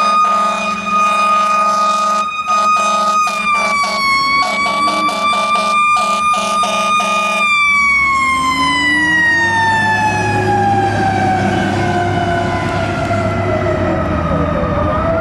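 Fire truck siren sounding a high, steady wail with a lower steady tone under it and repeated short breaks. About halfway through the siren winds down, its pitch falling slowly over several seconds, with the truck's engine rumbling underneath.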